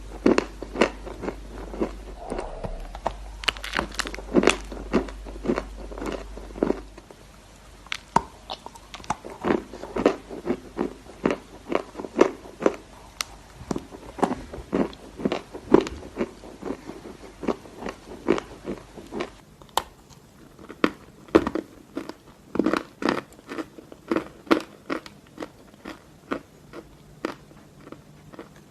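Chalk being bitten and chewed close to the microphone: a steady run of sharp, dry crunches, about two or three a second.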